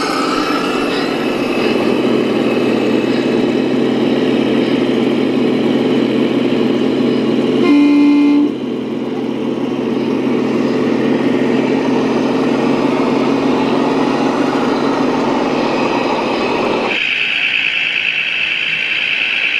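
RC model vehicle's sound module playing a steady engine sound, with one short horn toot about eight seconds in, the loudest moment. Near the end the sound changes abruptly to a different, higher steady hum.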